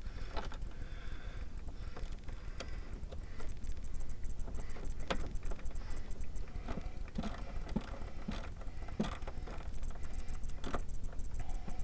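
Scattered light metallic clicks and taps of a nut and tools being fumbled onto a stud by hand in a truck's engine bay, over a steady low rumble.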